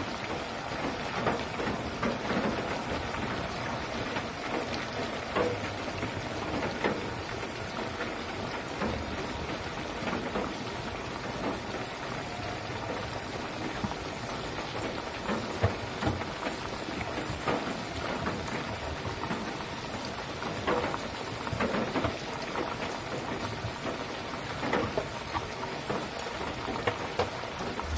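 Banana slices deep-frying in sugared oil in a wok: a steady sizzle full of fine crackling, with scattered louder pops, as the slices fry toward brown.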